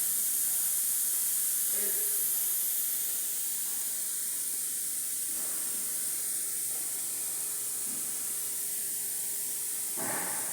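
Steady high-pitched hiss of compressed air.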